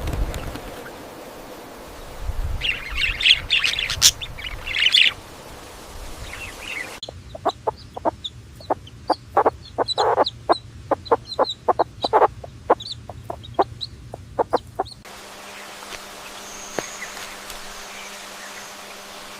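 Farm bird calls in separately cut clips: bursts of high chirping calls, then about eight seconds of short, sharp clucks several a second, then a quieter stretch with faint high chirps.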